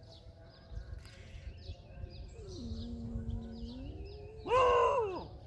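Birds chirping in short repeated calls, with a steady low hum in the middle and a loud, short cry that rises and then falls about four and a half seconds in.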